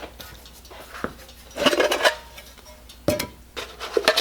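Metal pieces of a camp-stove cook kit clanking and clinking as they are handled: a few knocks, each with a short metallic ring.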